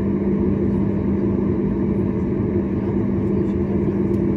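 Cabin noise inside a Boeing 737 MAX 8 airliner: a steady drone from the engines and airflow, with a constant low hum running under it.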